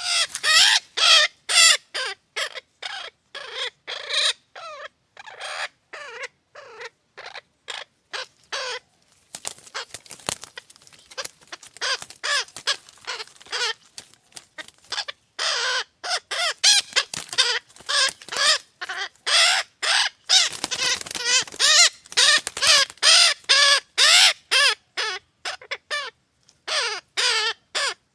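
Nestling parrots squawking: a rapid run of short, harsh, loud calls, several a second, broken by brief pauses.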